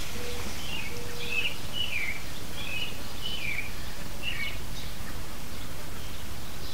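A songbird calling in a run of short, quick chirps for a few seconds, over steady low outdoor background noise.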